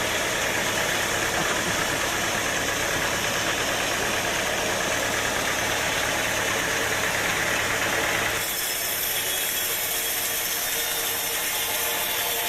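Sawmill engine running steadily with a light rattle. About eight seconds in, the lower running sound drops and a thin high whine comes in.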